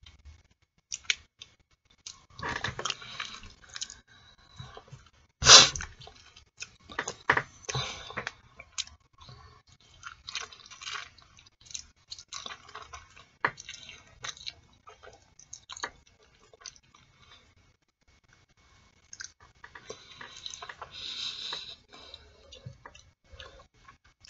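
Close-miked eating sounds of boiled artichoke leaves: scraping the soft flesh off the leaves with the teeth, chewing and wet lip smacks, in irregular bursts of clicks. One sharp click, the loudest sound, comes about five and a half seconds in.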